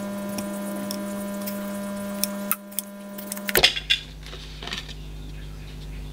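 Plastic clicks and scraping as the fabric-covered outer sleeve of a Sony LF-S50G smart speaker is worked loose and pulled off its inner plastic body. The loudest burst of scraping and clicking comes about three and a half seconds in.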